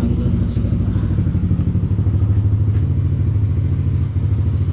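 Motorcycle engine idling steadily, a rapid low pulsing that swells slightly about two seconds in.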